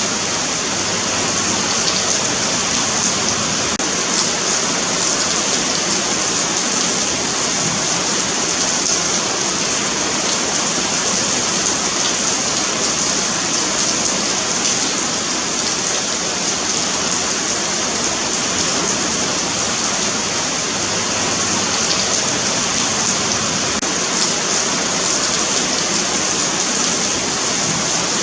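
Steady rain falling on a paved sidewalk, an even, continuous hiss of drops.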